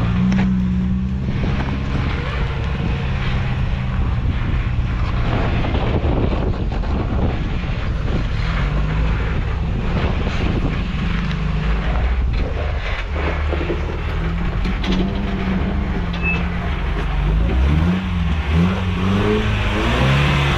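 1986 Toyota pickup's engine revving up and down under load while crawling a slippery rock obstacle, with a few sharp knocks from the truck working over the rocks.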